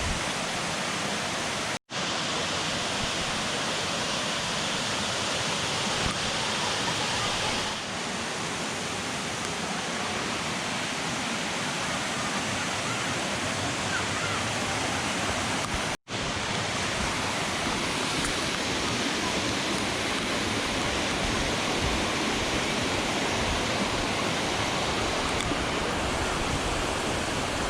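Steady rushing of a waterfall's falling water, broken twice by an instant of silence, about two seconds in and about sixteen seconds in.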